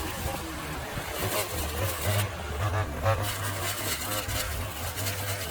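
A motor running steadily with a low hum, with a few knocks and clatters over it.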